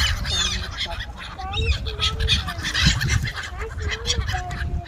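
A flock of birds at a pond calling while being fed: many short calls, some sliding up or down in pitch, with a dense clatter of small clicks and a low rumble underneath.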